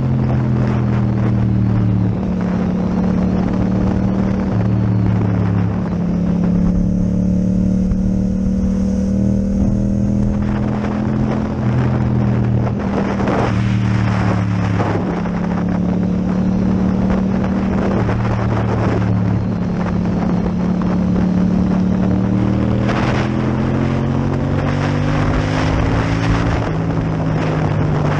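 Yamaha MT-07's parallel-twin engine with an Akrapovic exhaust, running at a steady cruising pace with wind rush over it. The engine note rises a little near the end.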